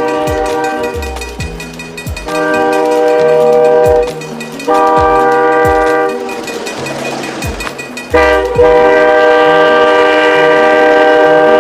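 Locomotive air horn sounding several long blasts, each a chord of several tones together, with the rumble of the train between the blasts.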